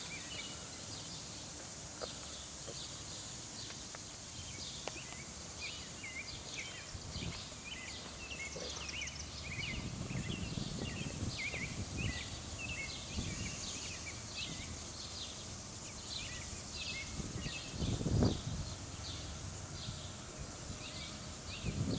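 Small birds chirping over and over in short rapid notes, over a steady high hiss, with a few brief low rumbles around halfway and near the end.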